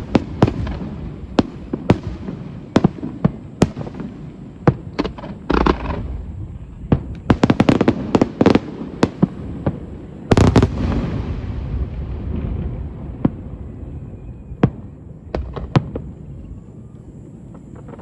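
Aerial fireworks going off in quick succession: sharp bangs and crackling salvos over a rumbling echo. A heavy burst comes about ten seconds in and rings off slowly, and the bangs thin out and grow quieter toward the end.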